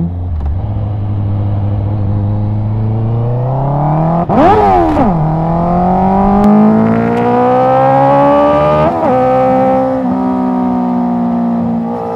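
Honda CBR650R's inline-four engine through an Akrapovic exhaust, accelerating under way. The revs climb, then flare up and fall sharply about four seconds in, where a gear did not engage properly. They climb again until an upshift near nine seconds, after which the engine runs steadily.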